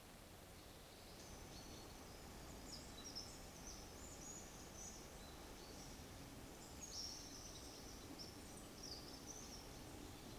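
Faint high-pitched twittering of a small bird: a run of short, quick calls starting about half a second in and stopping near the end, over a low steady background hiss.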